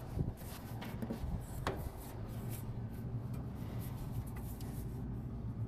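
A steady low machine hum with a few light clicks and rubbing sounds of handling, the clearest click a little under two seconds in.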